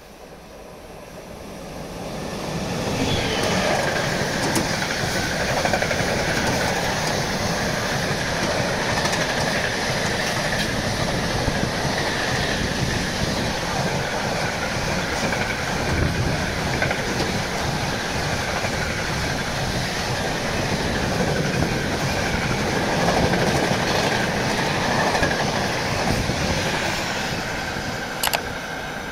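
Freight train hauled by a BR 186 electric locomotive passing through at speed: the noise builds over the first few seconds as it arrives, then holds as a steady rolling of steel wheels on rail with clickety-clack while the long rake of enclosed car-transporter wagons goes by, easing near the end as the last wagon pulls away.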